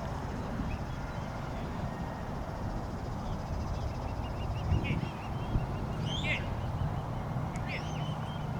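Birds calling: a quick run of short high chirps, then a few sharp calls that sweep up and down, over a steady low rumbling noise.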